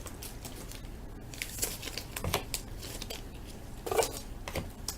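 Crinkling and rustling of a foil baseball card pack wrapper and the cards inside being handled as the pack is opened. There are a few short rustles, the loudest about four seconds in.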